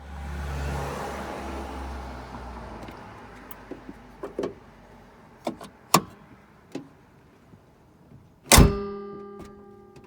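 Mitsubishi Delica D5 diesel engine bay: a low hum dies away over the first few seconds, followed by scattered clicks and clacks and one loud metallic clunk that rings on briefly, about eight and a half seconds in. This is the clacking from the engine bay's mechanisms when the engine is switched off.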